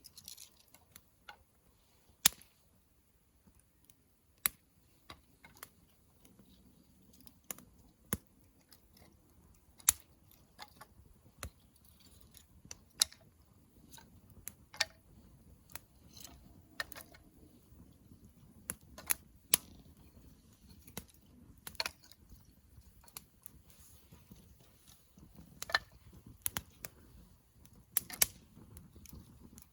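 Wood campfire crackling: irregular sharp pops and snaps, several every few seconds, over a faint low hiss of the burning fire. The loudest snap comes about two seconds in.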